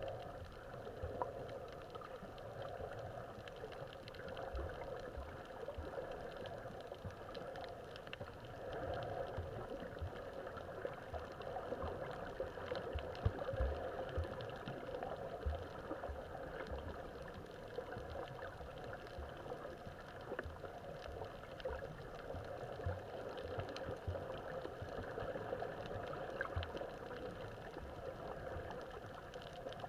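Muffled underwater sound through a camera housing: a steady wash of water noise with bubbling, small clicks and soft low thumps, swelling and easing every few seconds.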